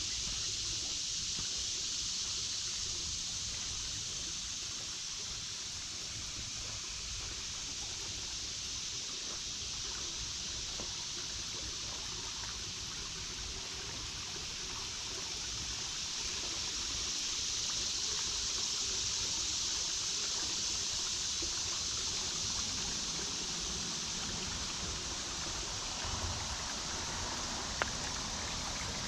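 Creek water babbling and trickling over stones, a steady rushing that swells a little about two-thirds of the way through. A single brief click sounds near the end.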